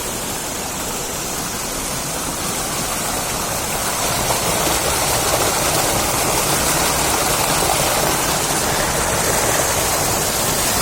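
Flowing river water rushing steadily, growing a little louder about four seconds in.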